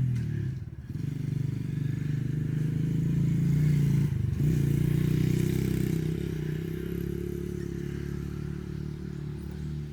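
Small dirt bike engine running under throttle as the bike rides off. Its note dips briefly just before a second in, climbs over the next few seconds, and breaks off for a moment about four seconds in. It then holds a steady note that slowly grows fainter.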